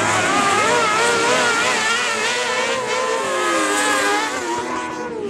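Several kart cross engines running and revving together, each pitch wavering up and down as the karts race around the dirt track.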